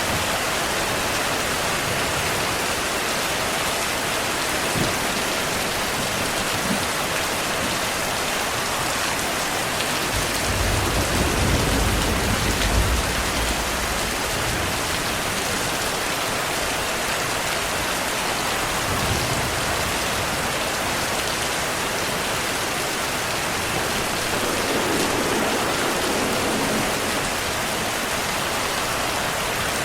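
Heavy rain falling steadily, with a low roll of thunder about ten seconds in that lasts a few seconds, and fainter rumbles later.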